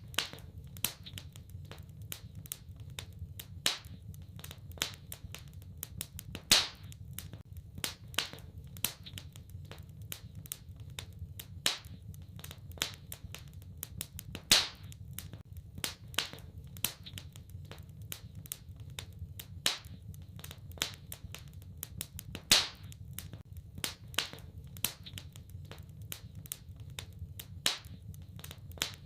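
Wood fire crackling, with irregular sharp pops, a few much louder than the rest, over a low steady rumble.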